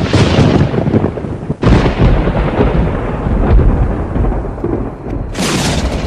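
Thunder: a sharp crash at the start and another about a second and a half in, each rolling into deep rumbling, with a further crash near the end.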